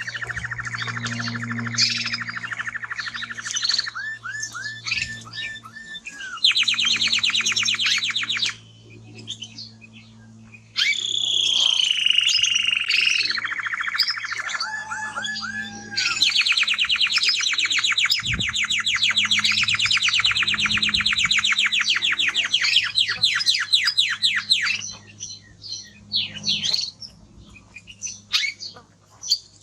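Male Spanish Timbrado canary singing in long, very fast rattling trills and rolls, broken by a pause of a couple of seconds early on and a few scattered notes near the end.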